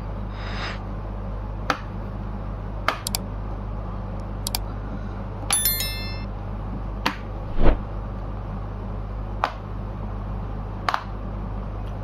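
Scattered sharp clicks and taps of a laptop being handled, with a short electronic chime of a few stepped tones about five and a half seconds in and a heavier thump soon after, over a steady low electrical hum.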